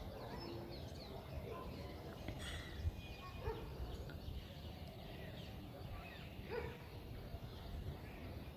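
Birds chirping and calling, many short scattered chirps, over a steady low rumble.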